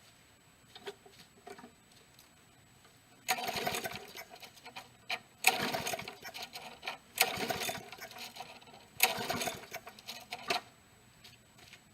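Push mower's small engine cranked by its recoil pull cord four times, each pull a short burst of rattling, turning over without catching; the owner takes it to be low on gas.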